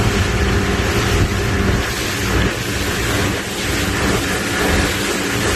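A motor yacht's engines running with a steady low hum, under a continuous rush of wind.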